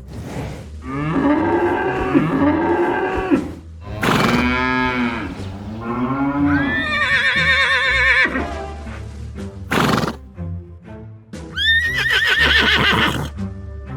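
A series of farm animal calls over steady background music: a couple of lower calls in the first few seconds, then horse neighs with a wavering, shaking pitch around the middle and again near the end.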